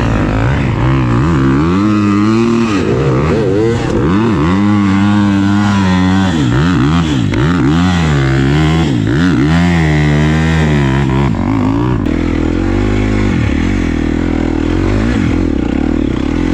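Dirt bike engine revving up and down over and over as the throttle is worked, with pitch swooping up and falling away several times in quick succession, then holding steadier and lower near the end.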